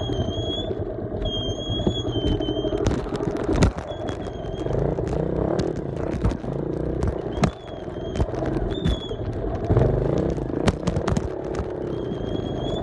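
Small off-road vehicle engine running and revving up and down while riding over rough ground, with repeated knocks and rattles from the machine.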